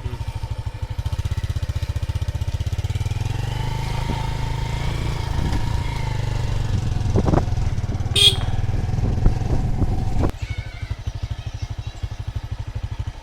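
A small engine running with a steady, fast low throb. About ten seconds in, the sound drops suddenly to a lighter pulsing. A sharp click comes about eight seconds in.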